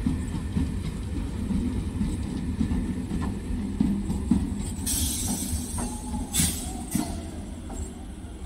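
Electric multiple unit local train's coaches rolling along the track, a steady low rumble with irregular wheel clicks over the rail joints. Short hisses come about five and six and a half seconds in.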